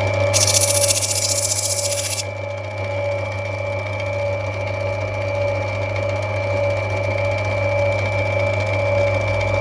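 Opal-cutting lapidary machine running steadily with a constant motor hum. About two seconds of loud high hiss sound over it near the start, then stop.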